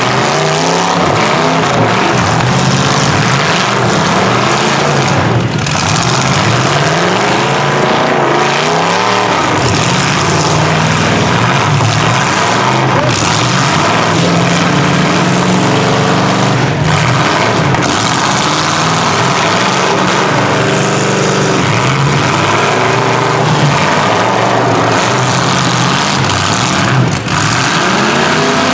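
Several truck, van and SUV engines revving hard at once in a demolition derby heat, their pitch climbing and dropping over and over.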